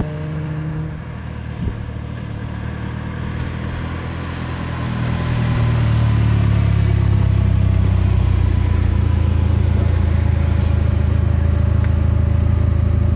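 A car engine running at a constant low pitch, growing louder about five to six seconds in as it comes close, then holding steady.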